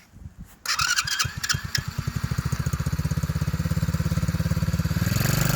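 Mini ATV's 110cc four-stroke engine being push-button started: the electric starter cranks briefly about half a second in, the engine catches and settles into an even, fast putter, running a little louder near the end.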